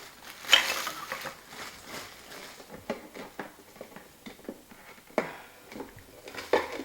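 Handling sounds of unpacking an espresso maker and its accessories: a rustle of packaging about half a second in, then scattered light clicks and knocks of parts being picked up and set down.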